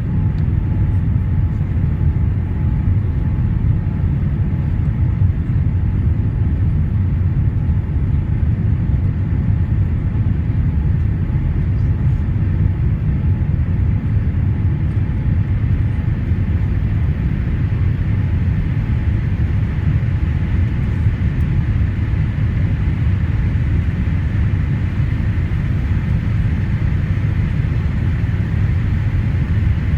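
Boeing 787-8 cabin noise heard from a rear window seat: a steady, deep rumble of the jet engines and airflow that holds even throughout.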